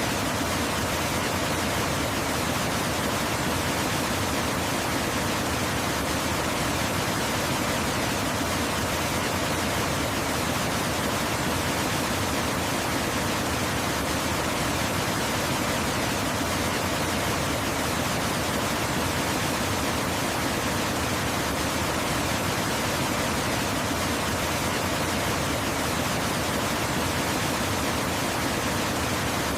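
Waterfall rushing steadily: an even, unbroken roar of falling water with no changes in level.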